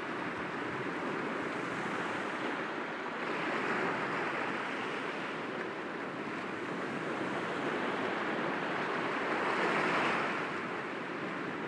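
Sea waves breaking softly against rocks, a steady surf wash that swells twice, about four seconds in and again near the end.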